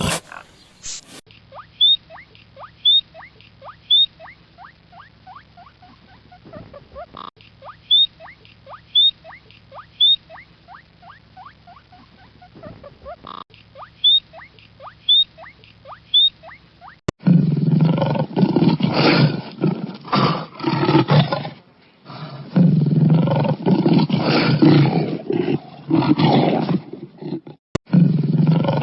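An animal call repeated three times: three short high chirps, then a run of falling whistled notes. About two-thirds of the way through, it gives way to loud, rough animal roaring in bouts.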